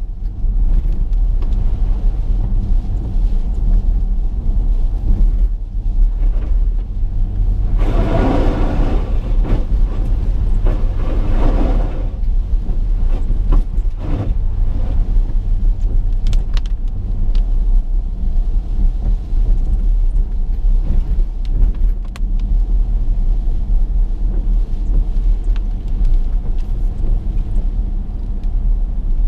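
Steady low rumble of a car on the move, heard from inside the cabin, with a louder rushing swell lasting a few seconds about eight seconds in.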